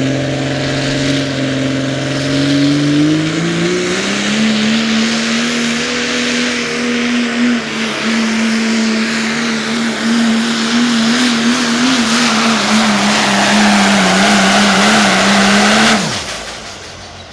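Limited Pro Diesel pulling truck's diesel engine at full throttle under the sled's load. Its pitch climbs about three seconds in, then holds with a slight waver. Near the end the throttle is released and the engine sound drops away suddenly.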